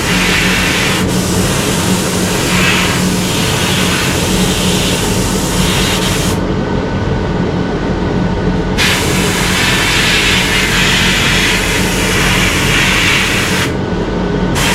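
A loud, steady hiss over a low machine hum. The hiss cuts off sharply for about two seconds midway and again briefly near the end, while the hum carries on.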